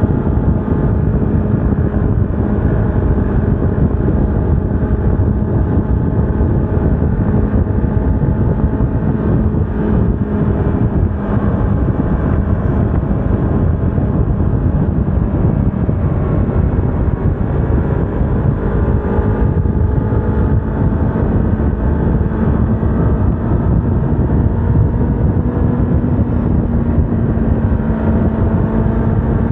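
Yamaha R25's parallel-twin engine running at a steady cruise under heavy wind and road rush, its note rising a little near the end.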